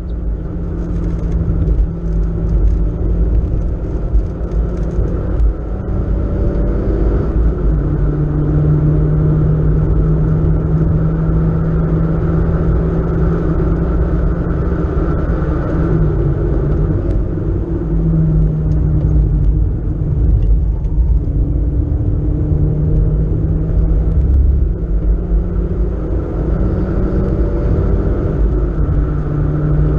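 Engine of a BMW 318is (E36 3 Series, four-cylinder) heard from inside the cabin while lapping a race track, its note climbing and dropping several times with throttle and gear changes, over steady road and wind noise.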